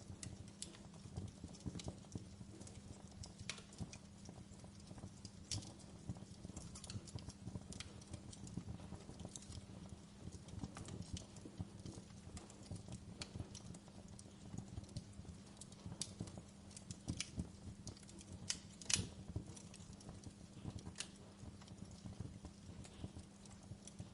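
Wood fire burning in a fireplace, crackling with irregular sharp pops and snaps, the loudest about 19 seconds in, over a steady low hum.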